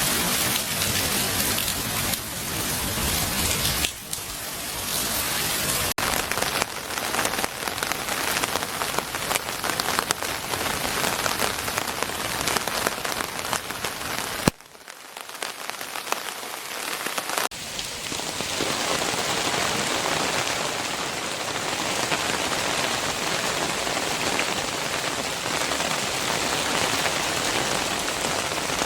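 Heavy rain pouring and splattering steadily. The sound shifts abruptly a few times, and just past the middle it drops away for about three seconds before the downpour returns.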